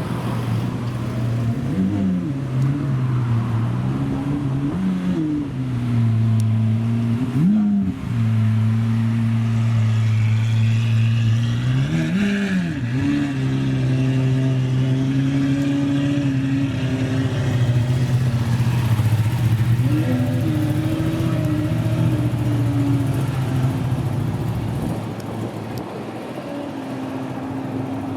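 Supercar engine idling steadily, with the throttle blipped five times into short revs that rise and fall back to idle; the two largest come near the middle.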